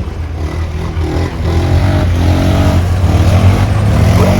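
A vehicle's engine running while driving, with a steady low hum that gets louder about a second and a half in.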